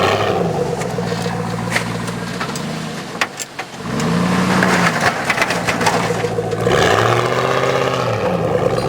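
Chevy Z71 4x4 pickup's engine revving up and easing off several times as the truck pushes snow with its plow, with a brief lull about three and a half seconds in.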